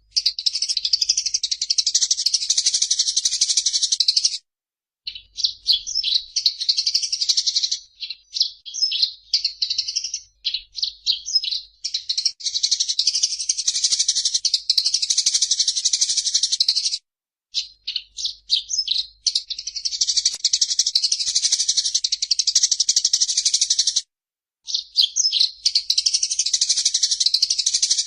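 Eurasian tree sparrow (burung gereja) in agitated 'fighting' song: long runs of rapid, high-pitched chattering with no break. It pauses briefly three times, and between about five and twelve seconds in it breaks into shorter separate phrases.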